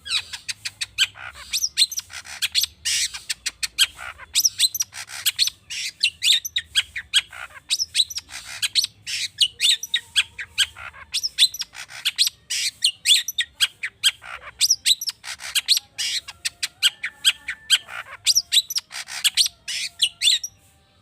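Long-tailed shrike singing a fast, varied song of quick chirps and trills packed with mimicked calls of other birds. The song stops shortly before the end.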